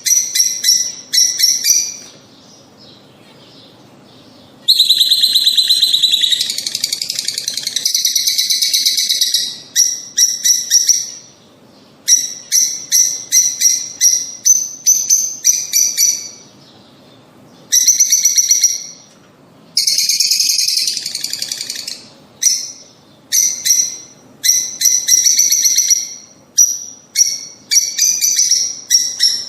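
Lovebirds calling: runs of short, sharp, high chirps with brief pauses, broken by a longer stretch of rapid chattering about five seconds in and a shorter one around twenty seconds in.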